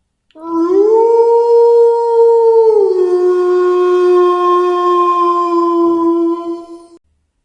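A wolf howling: one long, pure-toned howl that rises in pitch at the start, holds, steps down a little about three seconds in, and holds again before fading out after about six and a half seconds.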